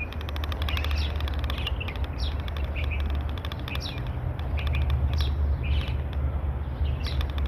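A bird chirping repeatedly, short calls that each fall in pitch, about one or two a second, over a steady low rumble.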